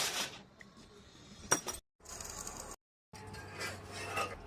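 Two sharp metallic clinks: one right at the start and one about a second and a half in, with fainter clatter between, and the sound cutting out twice briefly.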